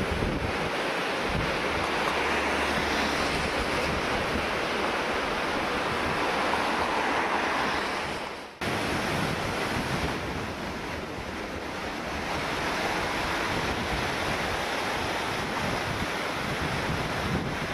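A typhoon-swollen river in flood, its water rushing as a steady noise, with wind buffeting the microphone. The sound cuts out for an instant about halfway through.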